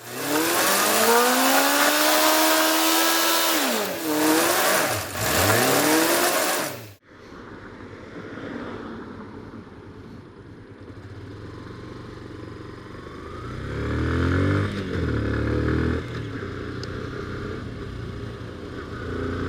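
Motorcycle engine revving, its pitch sweeping up and down loudly, with a fast fall like a bike passing close by. After an abrupt cut about seven seconds in it goes quieter, and the engine accelerates with its pitch climbing through the gears.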